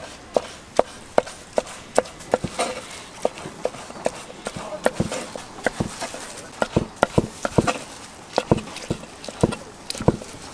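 Knife chopping sundae and boiled offal on a cutting board: a run of sharp, uneven knocks, several a second.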